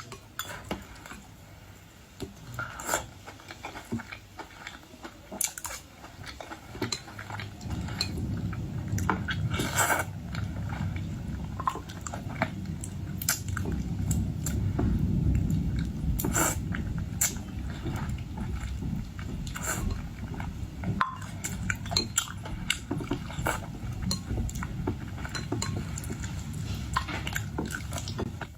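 Eating boiled seafood: many sharp clicks and taps of utensils and shells against dishes, mixed with chewing. A low muffled rumble joins in about eight seconds in and carries on.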